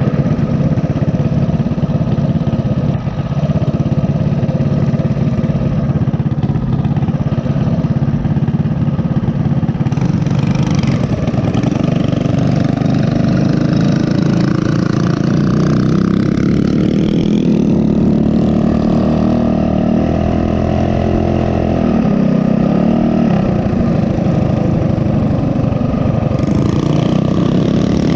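Small single-cylinder four-stroke minibike engine running on the move, its pitch rising and falling as the throttle is opened and eased off.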